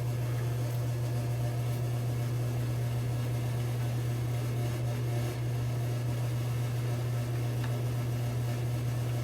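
A steady low hum, with faint swishing of a shaving brush being worked into shave soap to build lather.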